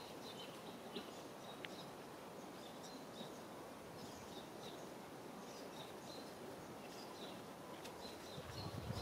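Faint outdoor ambience: small birds chirping in short, high notes, repeated off and on over a steady low background hiss.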